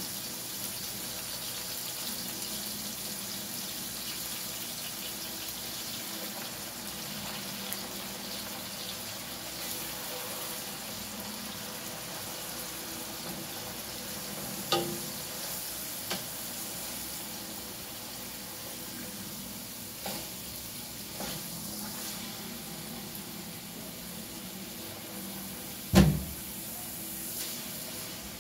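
Liver frying in oil in an aluminium pot, a steady sizzle, with a few knocks of a spatula against the pot; the loudest knock comes near the end.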